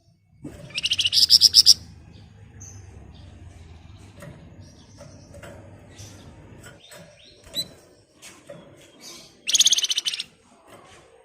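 Flamboyan songbird singing its dense, rapid rattling trill twice, each burst about a second long, with softer scattered chirps in between.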